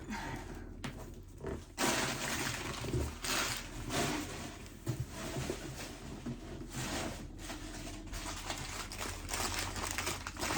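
Paper packing crinkling and rustling in irregular surges as a wrapped crystal specimen is unwrapped by hand.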